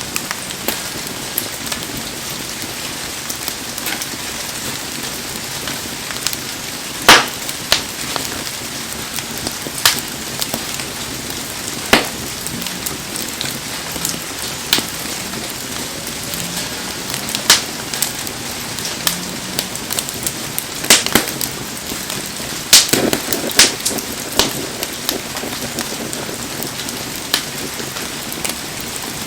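Heavy rain falling steadily around a campfire, with sharp pops and cracks from the burning wood scattered irregularly through it, a few much louder than the rest.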